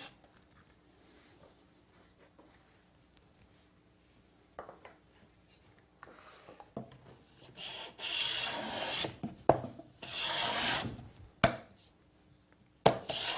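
Scraper plane with a hooked blade pushed across a wooden board: quiet at first, then from about halfway three rasping scraping strokes, with a sharp knock between strokes.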